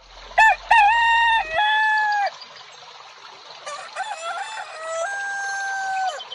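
A rooster crowing twice, two long drawn-out crows, the second held longer and stepping up in pitch partway through.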